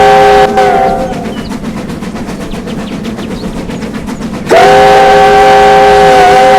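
A train's loud three-note chime whistle sounded in two long blasts: the first cuts off about half a second in, and the second starts about four and a half seconds in with a slight upward slide. Between the blasts the train's running rumble is heard, with faint regular clicks.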